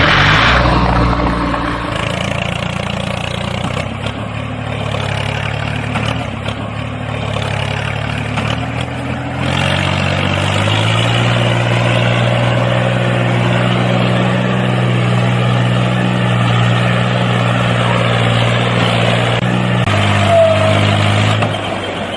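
Tractor engine running steadily, its note shifting about ten seconds in and again near the end.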